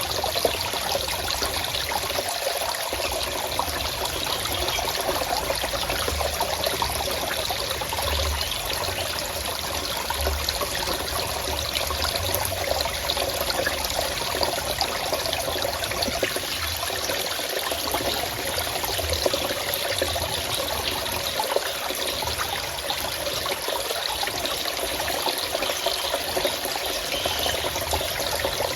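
Water of a small stream flowing and trickling steadily.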